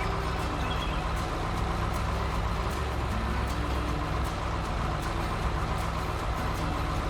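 Excavator's diesel engine running steadily, a low rumble.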